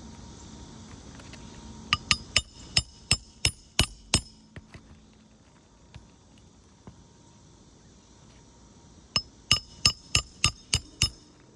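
Hammer driving nails into a roof shingle: two runs of about eight quick, ringing strikes, the first about two seconds in and the second near the end.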